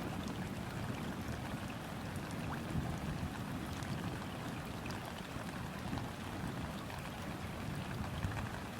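Steady rain falling on a river's surface, a dense patter of small drop ticks over an even low rumble.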